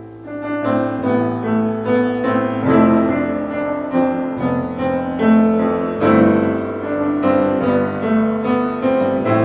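Piano music: a melody of changing notes over held bass notes, which shift a few times.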